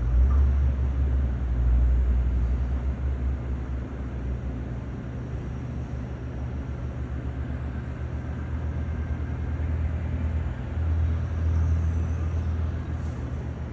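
Steady low engine drone of an airliner pushback on the ramp, with a deep hum that swells twice.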